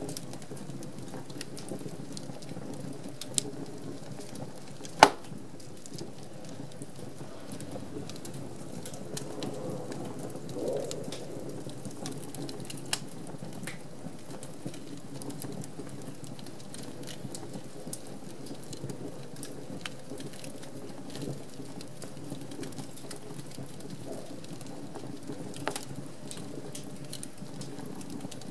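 Wood fire crackling in a fireplace: a steady hiss from the flames with scattered small pops and snaps, and one loud pop about five seconds in.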